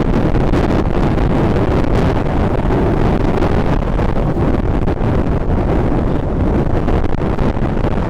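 Strong wind buffeting the microphone, a loud, steady roar heaviest in the low end, despite a Rode mic with a furry windshield.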